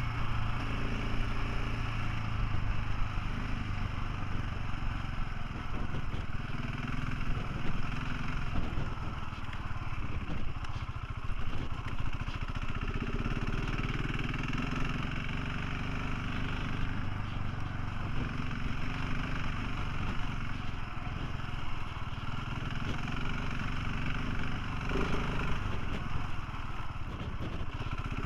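Motorcycle engine running steadily while riding, its note shifting a little with the throttle, under a constant rush of wind noise.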